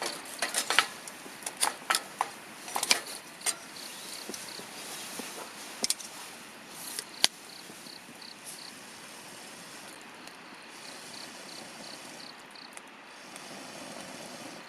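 Wood campfire crackling with sharp irregular snaps for the first several seconds, over the steady hiss of a nearby stream. A faint insect chirp repeats about three times a second.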